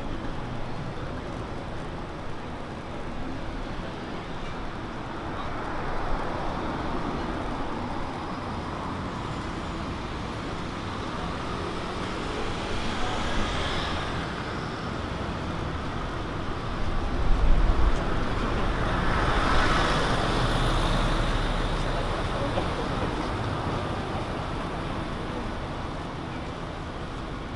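Street traffic: vehicles passing one after another, each swelling and fading, over a steady background of road noise. The loudest pass comes about two-thirds of the way through, with a low rumble.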